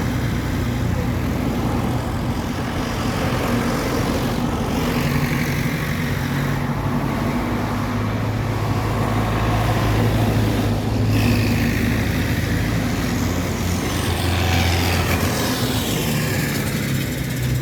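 Tractor engines running steadily as a line of tractors drives past, their pitch shifting as one gives way to the next, with a rising and falling whine in the middle of the stretch.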